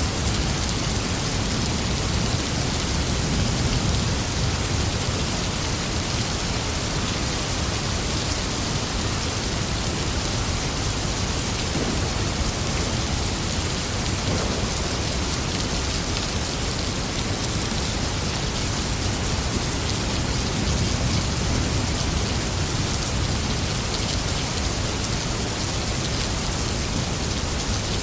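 Steady rain falling, a continuous even hiss, with low rolls of thunder rumbling twice, a few seconds in and again past the middle.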